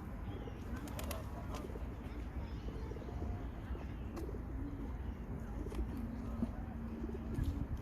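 Pigeons cooing low, with one drawn-out coo in the second half, over steady low background noise.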